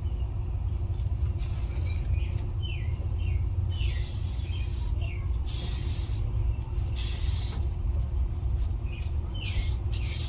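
A small bird chirping again and again in short downward notes over a steady low rumble, with a few hissing bursts, each about half a second to a second long, in the second half.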